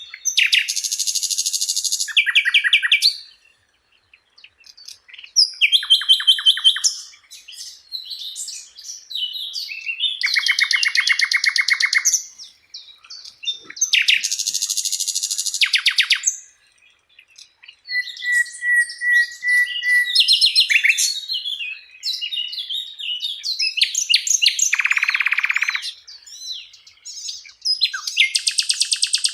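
Sikatan londo flycatcher singing a varied song: a string of short phrases of rapid trills, fast repeated notes and chattering, each lasting a second or two with brief pauses between.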